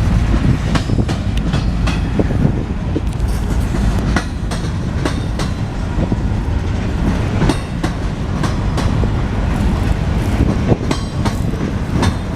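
Freight train rolling past close by: a steady heavy rumble with the wheels clacking over rail joints again and again.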